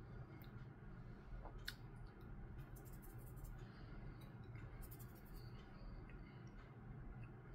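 Faint chewing of a mouthful of chocolate date-walnut bread: a few soft mouth clicks in small clusters over a low steady room hum.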